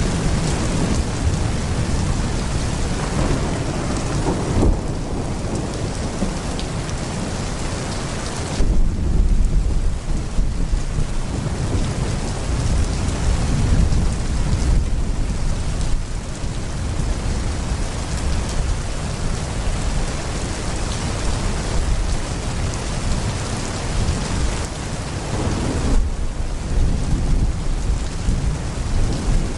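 Heavy rain pouring steadily with deep rolling thunder; a louder thunder crack and rumble comes about eight and a half seconds in, with smaller rumbles later.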